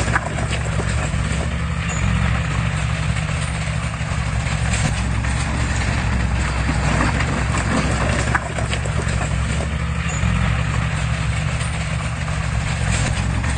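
Heavy diesel engine of earthmoving equipment running steadily, a low even drone with a scatter of clicks and clatter over it.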